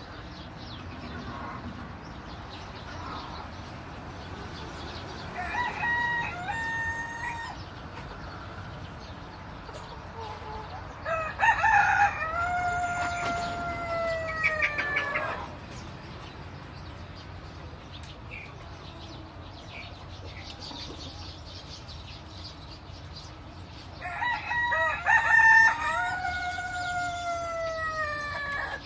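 Rooster crowing three times: a short crow about five seconds in, then two long crows about eleven and twenty-four seconds in, each ending in a drawn-out falling note. A steady background hiss runs underneath.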